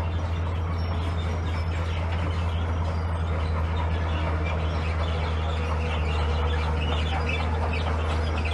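Heavy construction machine's diesel engine running at a steady low hum, with scattered short high chirps over it.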